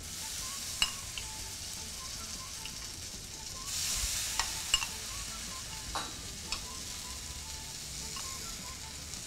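Tofu cubes frying in hot oil in a nonstick pan, a steady sizzle that grows louder about four seconds in as chickpea-flour batter is poured over them to make a crisp coating. A few light clicks come through the sizzle.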